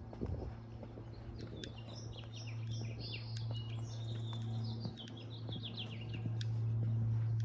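A songbird sings a long run of quick, high notes that drifts lower in pitch as it goes. Under it runs a steady low hum that grows louder near the end.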